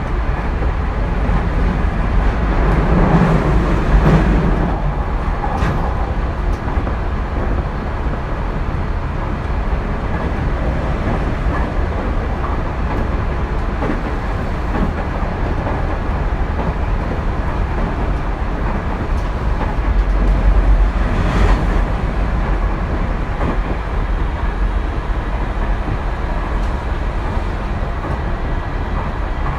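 Running sound of a Tokyu 2020 series electric train heard from inside the car: a steady rumble of wheels on rail at speed. It swells louder briefly about three to four seconds in and again about twenty-one seconds in.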